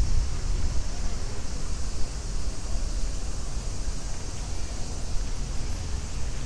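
Steady outdoor city ambience: a low rumble with a thin high hiss over it, and no single sound standing out.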